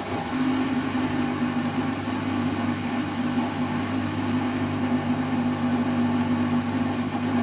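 Servis M3008B washing machine on its intermediate spin at 500 rpm: the drum turning at speed with a steady motor hum.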